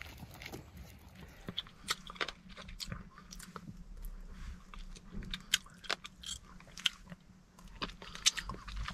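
A person biting grapes straight off the bunch and chewing them close up, a run of short wet crunches and clicks.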